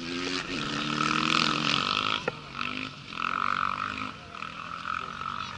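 Rally motorcycle engine fading away, its note dying out over the first two seconds, with a sharp click a little after two seconds in. A steady high-pitched drone carries on throughout.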